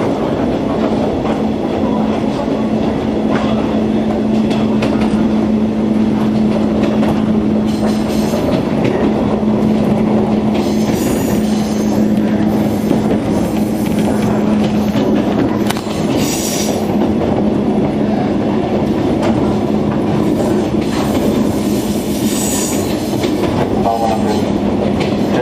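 Running noise heard inside a moving JR 103 series electric train's motor car: steady wheel and track rumble under a constant motor hum, with a few brief high squeals from the wheels.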